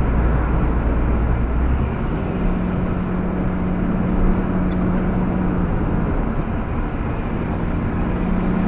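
Steady road and tyre noise inside a moving car's cabin, with a low hum that changes pitch about two seconds in.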